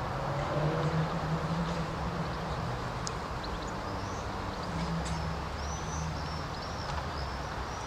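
Birds chirping in short, high, arched notes, coming thick and fast in the second half, over steady outdoor background noise with a low hum.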